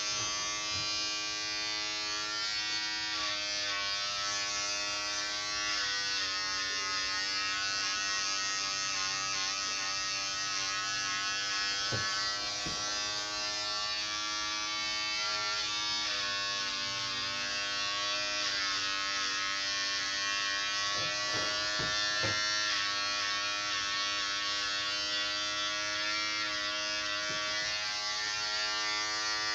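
Electric hair clippers running steadily with a buzzing hum, the pitch dipping slightly now and then as the blades cut hair.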